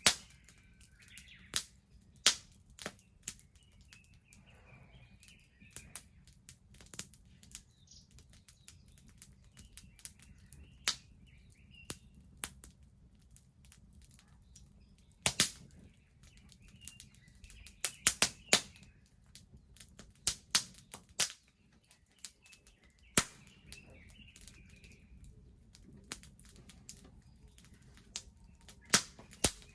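Wood bonfire crackling, with irregular sharp pops, some single and some in quick clusters. Birds chirp in the background every few seconds.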